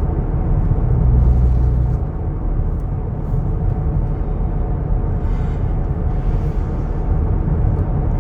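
Steady in-cabin road and engine rumble of a moving vehicle, heaviest in the low end, swelling a little louder for about a second starting around a second in.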